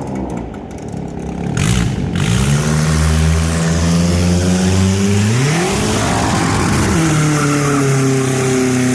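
Kia Spectra's four-cylinder engine with an open exhaust, revved hard and held at steady high revs. About five seconds in it jumps sharply higher, holds there briefly and drops back around seven seconds.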